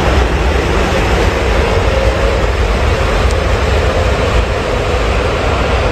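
CRH high-speed electric train running along an elevated viaduct: a loud, steady rushing rumble that holds even throughout.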